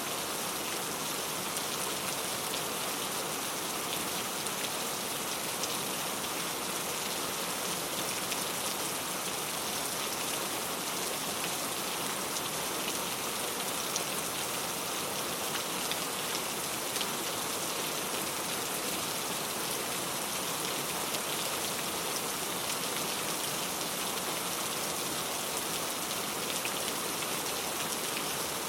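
Heavy rain falling steadily, a dense hiss of drops with many small individual drop ticks on a surface.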